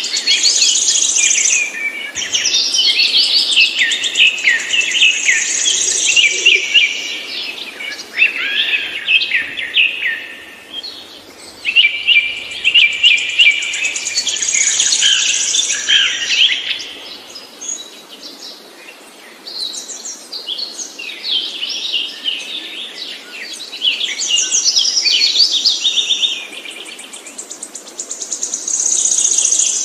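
A songbird singing long, fast phrases of varied high notes, each running several seconds, with short pauses between them.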